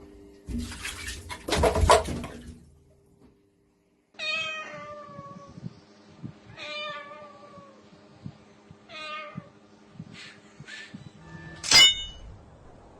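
A domestic cat meowing repeatedly: three drawn-out meows that fall in pitch, about two and a half seconds apart, then shorter meows and one loud, sharp cry near the end. Before the meows there is a short burst of noise with a loud peak.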